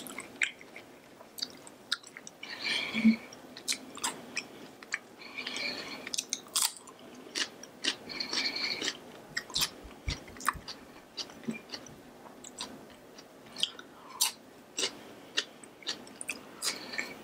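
Close-up chewing of grilled Isan sausage, a fatty fermented pork sausage: wet mouth clicks and lip smacks throughout, with a short hum about three seconds in.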